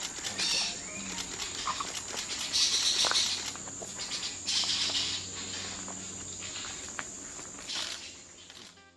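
Outdoor ambience with a steady high-pitched insect drone, broken every second or two by short hissy bursts; it fades out near the end.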